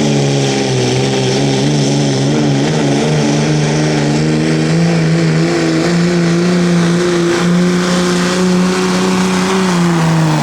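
Competition pulling vehicle's engine held at high revs under full load, its pitch wavering slightly at first and then holding steady, dropping near the end as the throttle comes off at the end of the pull.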